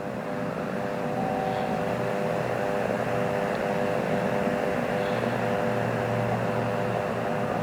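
Aircraft engine noise: a steady droning hum with a hiss over it, swelling slightly about a second in and then holding level.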